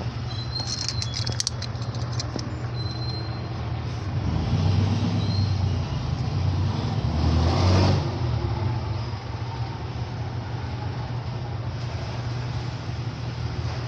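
Road traffic: a steady low engine rumble, with a vehicle passing that grows louder from about four seconds in, peaks near eight seconds and fades. A few light clicks sound in the first two seconds.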